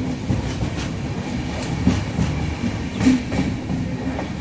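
Moving passenger train: a steady low rumble of wheels on rails, with irregular clanks and clatter.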